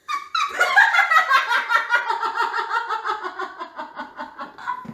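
Female laughter: a long, loud fit of laughing in quick, even pulses.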